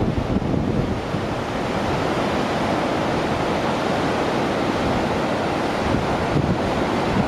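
Gullfoss waterfall's steady rush of falling water, with wind buffeting the microphone in low gusts near the start and end.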